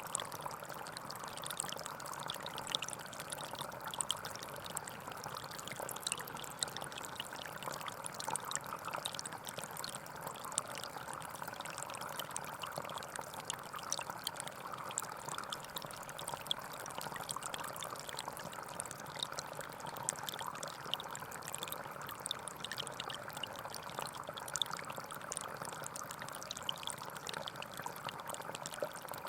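Small forest stream flowing steadily over stones, with a constant babble and many small splashes.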